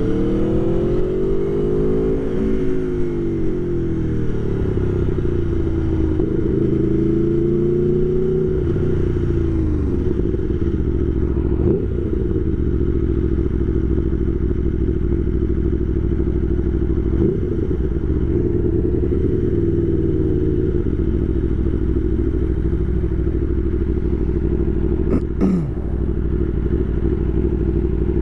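Aprilia Tuono V4 1100 Factory's V4 engine running while riding, heard from a mic inside the rider's helmet. The revs rise and fall several times over the first ten seconds, then hold steadier. A short, sharp falling sound comes near the end.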